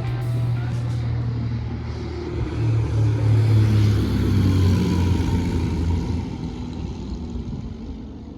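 Light aircraft's Corvair engine running, growing louder a few seconds in, then dropping away after about six seconds.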